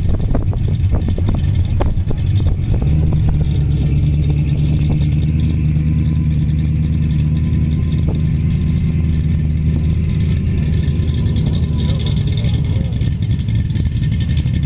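A car engine running at idle close by, a steady low rumble that sets in about three seconds in, after a few sharp knocks.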